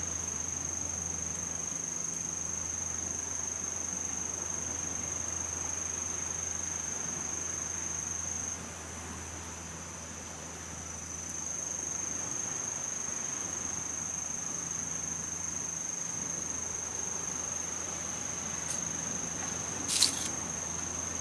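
An insect singing one steady, unbroken high-pitched note that fades for a couple of seconds near the middle, then comes back. A sharp click sounds near the end.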